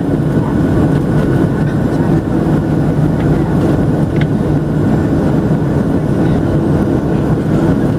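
Steady cabin noise inside a Boeing 737-700 airliner: a deep, even roar of the CFM56 jet engines and airflow, with a faint steady whine above it.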